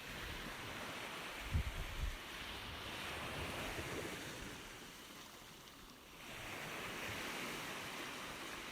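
Ocean surf washing in: a rushing wash that swells, falls away about five seconds in, and builds again as the next wave comes in, with a few low bumps about one and a half seconds in.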